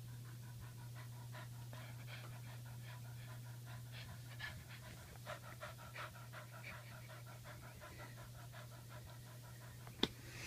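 A 17-year-old dog panting rapidly and evenly, several breaths a second, over a steady low hum, with a sharp click near the end.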